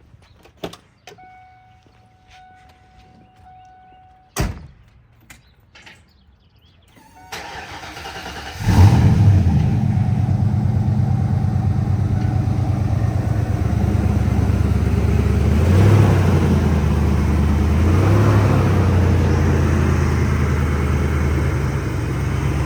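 1992 Ford Mustang engine cold start: after a few clicks, a steady warning tone lasting about three seconds and a sharp click, the starter cranks briefly and the cold engine catches about nine seconds in, then runs at a steady idle with two slight rises in engine speed.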